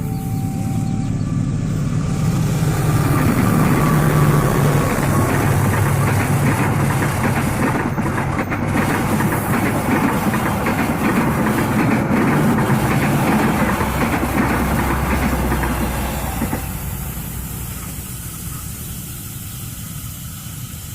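KAI CC204 diesel locomotive and its train passing by. The engine drone and the rumble of the wheels on the rails build over the first few seconds, stay loud, then fade after about sixteen seconds as the train moves away.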